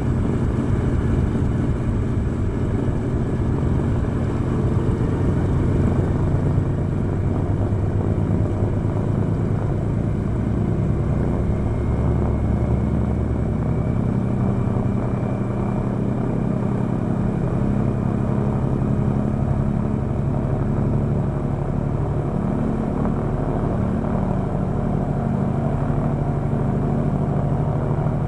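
Pratt & Whitney R-2800 radial engine of a Douglas A-26B Invader running steadily on a ground run, all cylinders firing.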